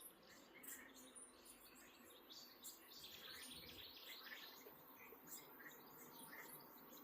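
Faint birds chirping, short calls repeating over a steady high insect trill, with a busier flurry of chirps about halfway through.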